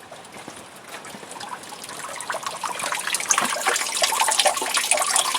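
Flowing water splashing and rushing, a stream or waterfall, growing steadily louder.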